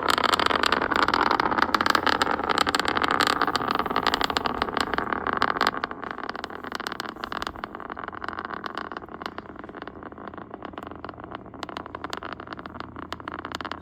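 Falcon 9 rocket's engines: a crackling roar, loudest at first, fading over the first six seconds or so and then going on quieter.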